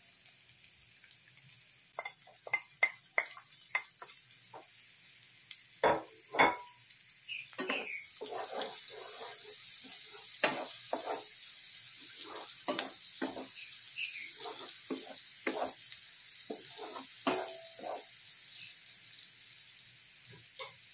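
Chopped garlic and red onion sizzling in melted butter in a nonstick wok, with a wooden spatula stirring and scraping the pan in many short strokes. The sizzle grows louder about eight seconds in.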